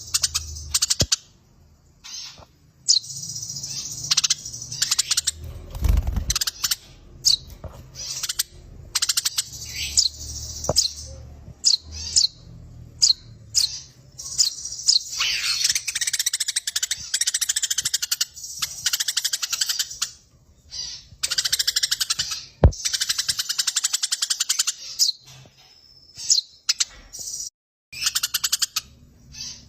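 Eurasian tree sparrows giving rapid chattering trills and sharp chirps, the excited calls of sparrows fighting, in bursts of several seconds with short breaks.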